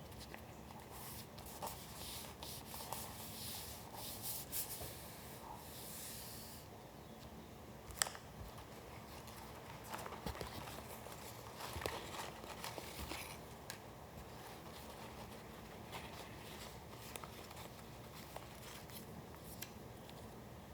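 Paper being handled and rubbed on a work surface: soft rustling and rubbing strokes over the first several seconds, a sharp tap about eight seconds in, a second spell of rustling a little later, then only small scattered ticks.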